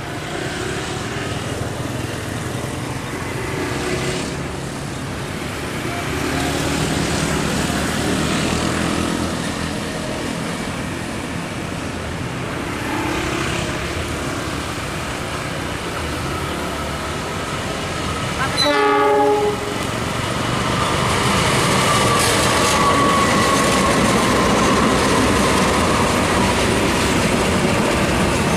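Diesel-electric locomotive hauling passenger coaches approaches and passes on a curve, its engine rumble building. It gives one short horn blast about two-thirds of the way through, then the wheels of the coaches clatter and hiss loudly as they go by.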